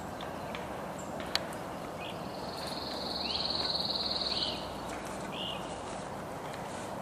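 A songbird's rapid trill lasting about two seconds, with several short slurred bird calls before and after it, over steady background noise. One sharp click sounds about a second in.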